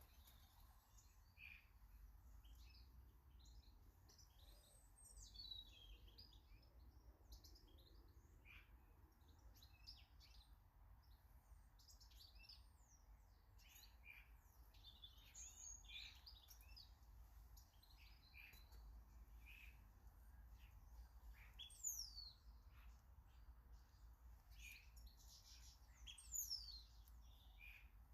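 Small garden birds chirping and calling, many short high notes overlapping throughout, faint. Two louder high calls sweep downward in pitch, one about three-quarters of the way through and one near the end.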